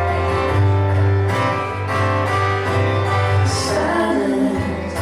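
Live band playing a song: guitar over a steady bass line, with a voice coming in near the end.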